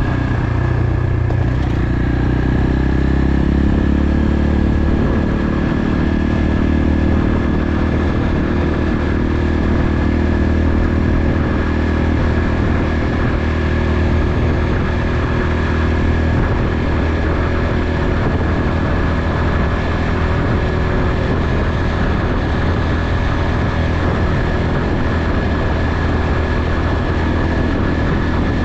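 Motorcycle engine running steadily under way, with a constant high whine over it.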